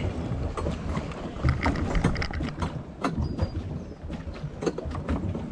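Pedal boat being pedalled, with water churning and irregular clicks and knocks, and wind rumbling on the microphone.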